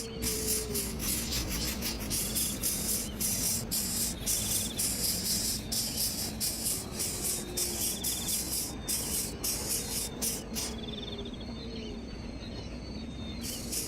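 Insects chirring in a dense, pulsing high-pitched hiss that drops away for a couple of seconds near the end, with faint short whistled calls under it.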